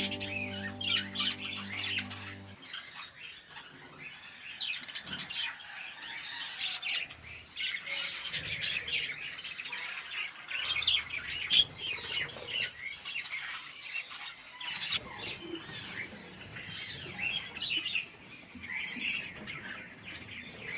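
A flock of budgerigars chattering, with many overlapping chirps and warbles and the odd squawk.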